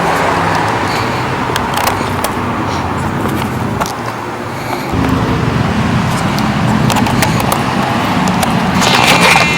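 Car running with engine and road noise, over a steady low drone and scattered clicks. About five seconds in, the low engine drone suddenly gets louder.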